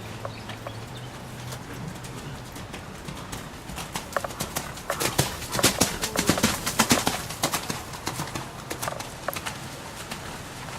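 A horse's hoofbeats, louder and denser in the middle and then fading away, over a steady hiss of rain.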